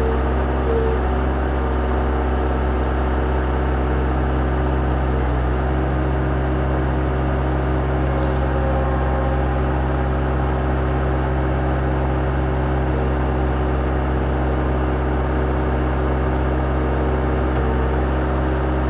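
Engine running at a steady speed, starting to wind down at the very end.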